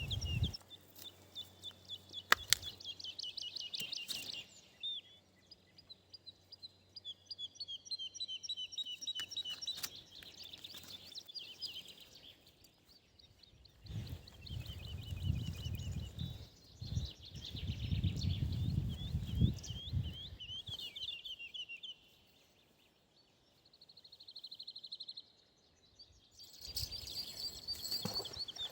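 Songbirds singing: quick runs of repeated high chirps and trills. A couple of sharp clicks come in the first few seconds, and a stretch of low rumbling noise sits in the middle.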